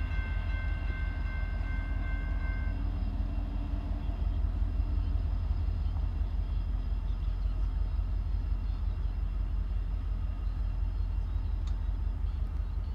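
BNSF diesel coal train rolling through with a steady, heavy low rumble. Its horn sounds a held chord that cuts off about three seconds in.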